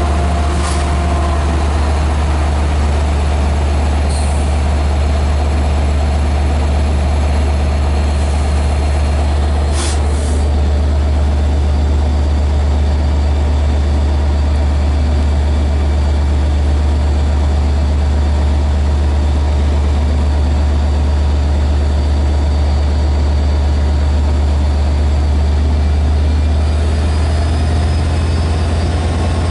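LIRR DE30AC diesel locomotive running steadily with a deep, even drone, with a few brief clicks early and about ten seconds in.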